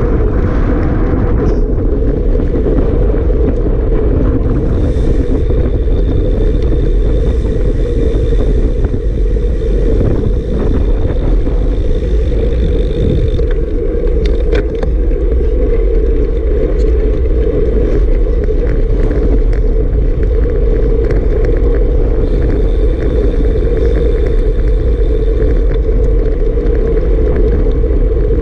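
Strong wind rushing over the microphone in a steady, loud roar of low noise.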